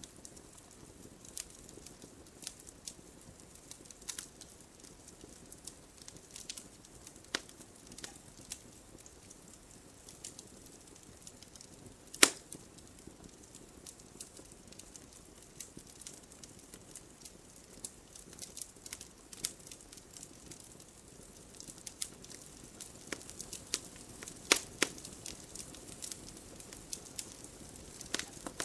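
Campfire burning: wood crackling and snapping at irregular intervals over a soft hiss, with one sharp loud pop about twelve seconds in and two more loud snaps about twenty-four seconds in.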